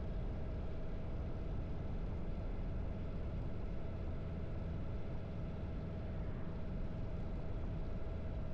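Harley-Davidson V-twin motorcycle engine running steadily while riding along at an even pace.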